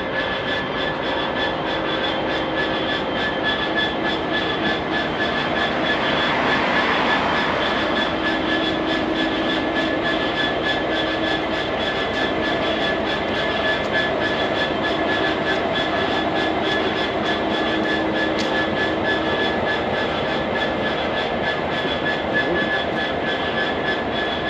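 Freight train wagons rolling past at length, with a steady high-pitched squeal from the wheels over the rumble of the running gear.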